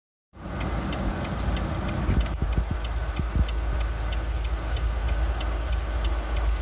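Wind rumbling on the microphone during a snowstorm, with a faint, even ticking about three times a second over it.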